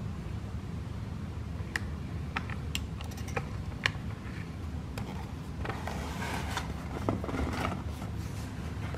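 Plastic gears, camshaft and lifters of a hand-cranked cutaway engine model clicking and rattling as the crank wheel is turned. There are scattered clicks at first and a denser rattle later on, over a steady low hum.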